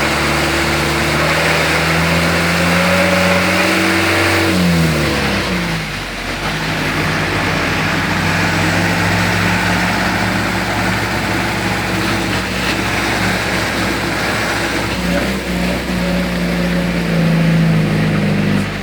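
Car engine running while driving, with a steady hiss of tyres on a wet road underneath. The engine note shifts briefly about five seconds in, then holds steady again.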